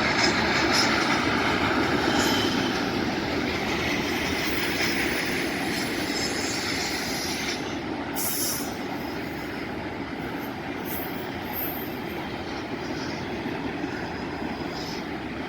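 A train rolling past, steel wheels running on the rails in a steady rumble that slowly fades. A brief high squeal from the wheels comes about eight seconds in.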